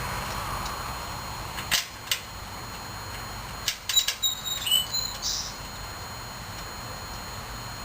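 A few sharp metal clicks and clinks of hand tools on the mower: two about two seconds in, then a quick cluster near the middle, with a few brief high chirps among them.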